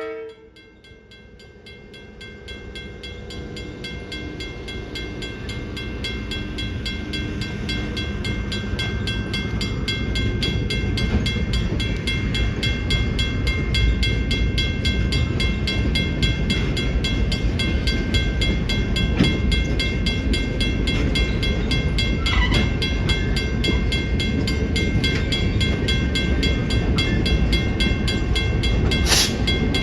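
Passenger train rumbling over a grade crossing, growing louder over the first ten seconds and then running steadily. Over it, the crossing's first-generation WCH mechanical bell rings steadily with fast, even strokes.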